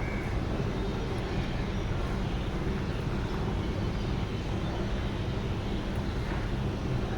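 Huebsch washing machine running, giving off an even, low-pitched machine noise with no clear rhythm or change.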